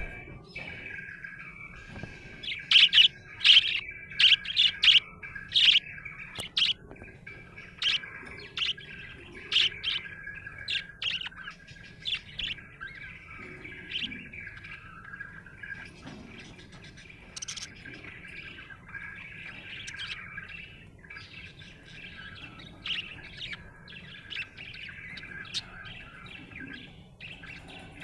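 Budgerigar chirping and warbling: a continuous chattering warble broken by many sharp, loud chirps, most of them in the first dozen seconds.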